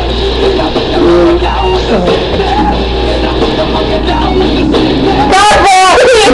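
Loud rock music with guitar, and a high voice sliding up and down about five and a half seconds in.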